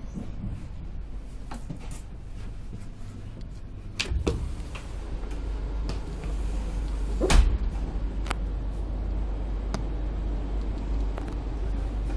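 Moving express train heard from inside a first-class passenger coach: a steady low rumble of running gear, louder from about four seconds in, with sharp irregular clicks and knocks as the wheels cross rail joints and points. The loudest knock comes a little past the middle.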